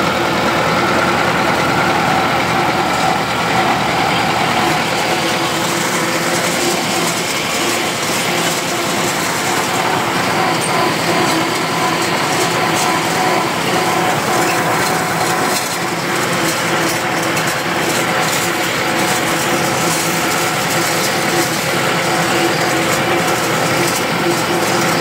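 Tractor engine running steadily under load, a continuous drone that holds an even pitch.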